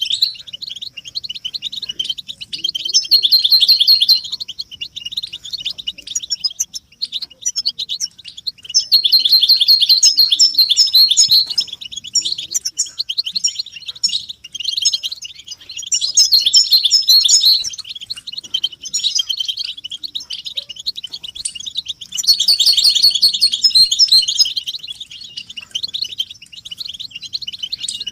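A group of European goldfinches twittering: a dense, continuous run of rapid high chirps and trills that swells into louder bouts about every six seconds.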